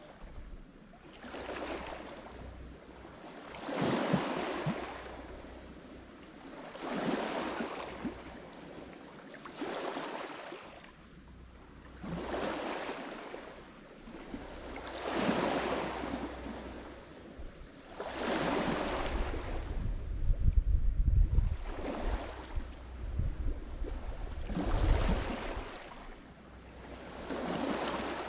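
Lake Michigan waves breaking and washing up on the shore in a steady rhythm, one surge about every three seconds, each swelling and then receding. A deeper low rumble comes in with the waves in the second half.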